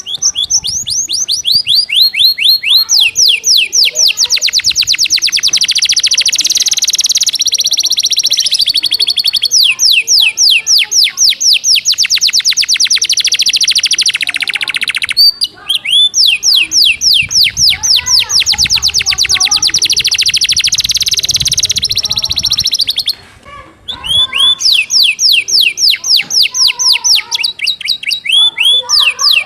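Domestic canary singing long, fast, tight trills of rapidly repeated downward-sweeping notes, about ten a second, in a song filled with imitated gelatik batu (cinereous tit) phrases. The trills break off briefly about halfway through and again a little after two-thirds of the way.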